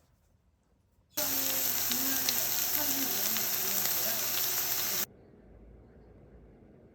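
Food sizzling in a hot pan for about four seconds, starting and stopping abruptly, with a faint voice underneath.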